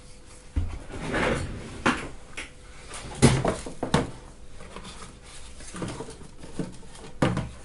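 Irregular knocks and rustling from objects being handled and set down on a workbench, with a few sharper clacks. The loudest come about three and four seconds in.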